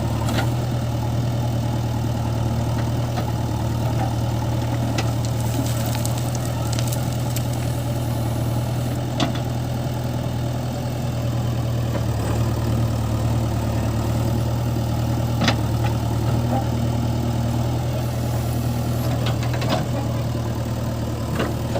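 JCB 3DX backhoe loader's diesel engine idling steadily, a constant low hum, with a few sharp clicks scattered through it.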